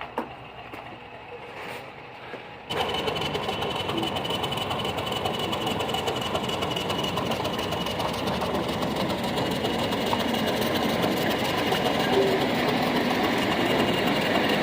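Ruston & Hornsby 165DS diesel locomotive's engine starting abruptly about three seconds in, then running with a fast, busy clatter that grows slightly louder.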